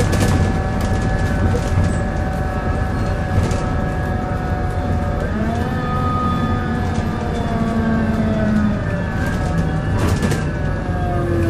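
Volvo B7L bus drivetrain running with a groaning, whining tone made of several steady pitches. About five seconds in the pitch steps up, then slowly falls, with scattered knocks and rattles throughout.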